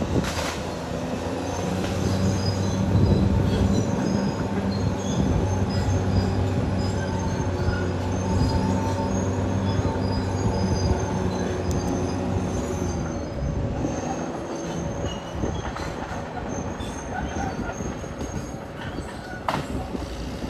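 Caterpillar D6R XL bulldozer working: its diesel engine drones steadily under load while the steel tracks squeal and clank, and the engine drone eases off about two-thirds of the way through.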